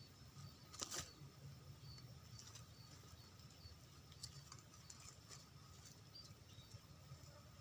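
Near silence with faint, scattered short high chirps from small birds, and one sharp click about a second in.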